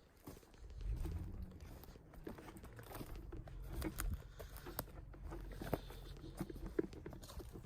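Footsteps crunching over forest-floor litter, with scattered snaps and rustles, under a low rumble that starts about a second in.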